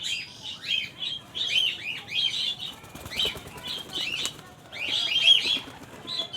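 Pigeons' wings flapping as they fly in to feed, amid a dense run of short, high chirps from small birds.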